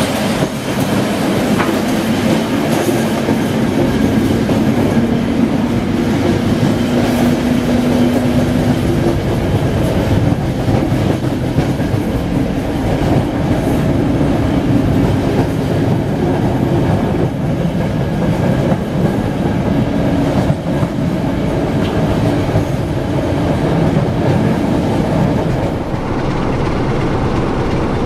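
A passenger train running at speed behind a CFR class 60 Sulzer diesel locomotive, heard from the front coach: wheels clattering over rail joints over a steady engine drone. Near the end the sound changes abruptly to the locomotive's engine running with the train nearly at a stand.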